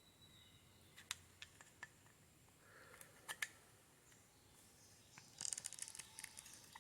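Faint small metallic clicks and taps of a screwdriver tightening a screw on an electric horn: a few scattered clicks, a close pair about halfway, then a quick run of small clicks near the end.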